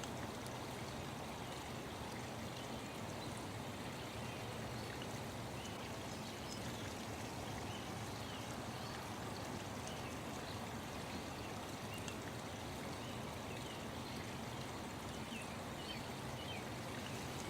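Nature-sound bed: a steady rush of flowing water with faint, short bird chirps, more frequent near the end.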